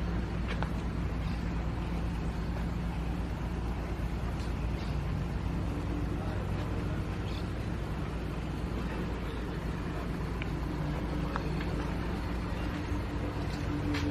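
A motor vehicle's engine running at a steady idle, a continuous low hum with no revving.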